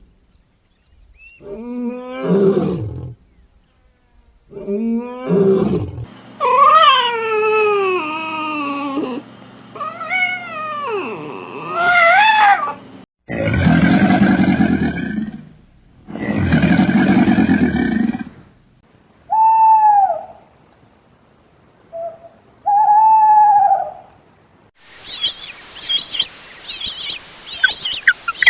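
A series of different animal calls edited one after another. Pitched, wavering cries come first, then two loud roar-like calls of about two seconds each, then a few short high calls. Rapid bird-like chirping starts near the end.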